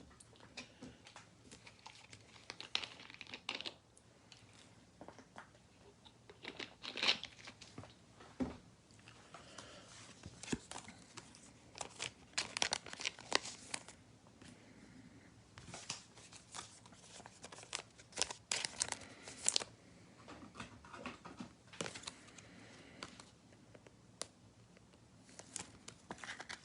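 Faint, intermittent crinkling and rustling of plastic and trading cards being handled, with scattered light clicks and taps.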